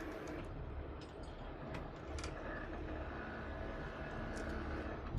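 Heavy rotator wrecker's diesel engine running steadily, with a few faint light clicks.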